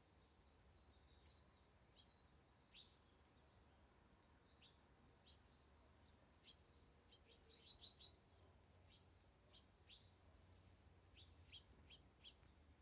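Faint chirps of small birds, short high calls scattered throughout, with a quick run of several chirps a little past the middle.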